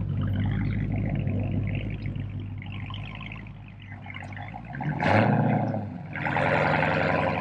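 Supercharged 6.2-litre Hemi V8 of a Dodge Challenger Hellcat running with its mid pipes deleted: a steady low drone that fades over the first few seconds, then two short louder surges about five and six seconds in.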